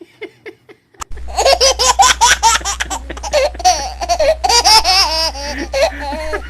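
High-pitched laughter from a young child, starting abruptly about a second in and going on in rapid bouncing bursts, with a steady low hum underneath.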